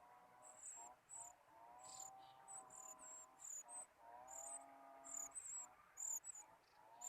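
Faint, high-pitched bird chirps, short and repeated in quick succession. A lower, drawn-out call of about a second comes back a few times underneath.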